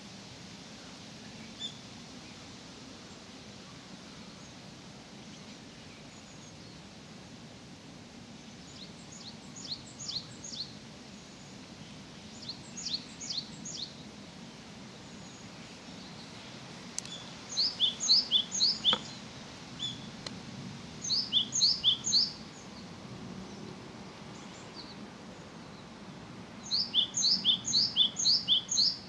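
A small songbird singing in short phrases of quick, high, repeated notes, one phrase every few seconds, louder toward the end. Under it lies a faint, steady, low background noise.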